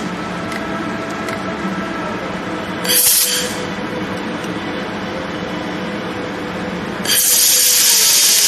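Handheld fiber laser welder at work on stainless steel: a short burst of welding hiss about three seconds in, then a loud continuous hiss of welding starting near the end, over a steady machine hum.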